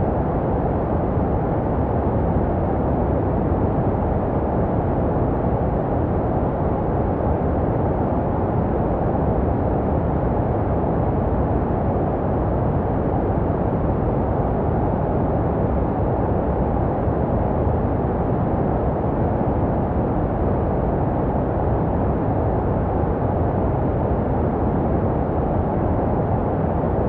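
Steady white noise for baby sleep, filtered to a deep, muffled hiss with most of its energy low and little above about 1 kHz, made to resemble the sound heard inside the womb. It runs evenly, without change.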